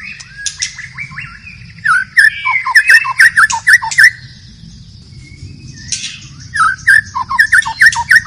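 White-rumped shama singing: quick bursts of short whistled notes sliding up and down, with a pause of about two seconds in the middle.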